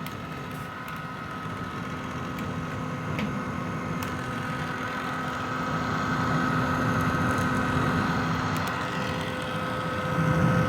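Vintage hair dryer running steadily: an even rush of air over a constant motor hum, growing somewhat louder about halfway through.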